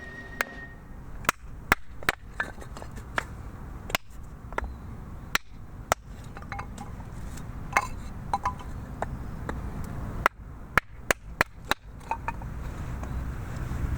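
Axe chopping firewood: a series of sharp, irregularly spaced knocks, some with a brief ring, in bunches near the start and again toward the end.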